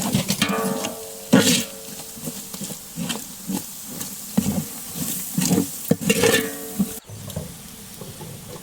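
A metal ladle stirring and scraping a masala of onions, tomato and freshly added spice powders frying in oil in a metal pot, with a steady sizzle and irregular scraping strokes, some with a brief metallic ring.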